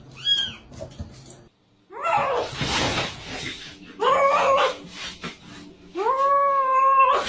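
A dog howling: two long, level-pitched howls in the second half, the second lasting about a second, after a rougher, noisy stretch of sound.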